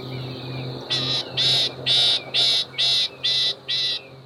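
Loggerhead shrike giving a series of harsh, rasping calls, about two a second, starting about a second in. Under them run a steady high tone and a low hum.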